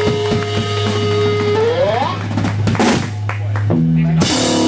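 Live rock band playing with no vocals: drum kit hits over a held bass note and a sustained guitar tone that bends upward, then a run of changing bass notes and a cymbal crash near the end.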